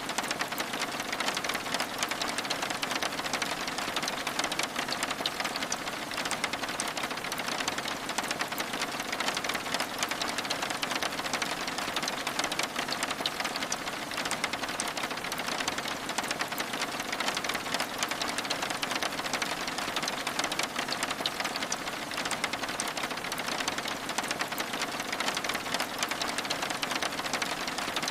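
Steady rain pattering on window glass, a dense, even patter of drops that does not change.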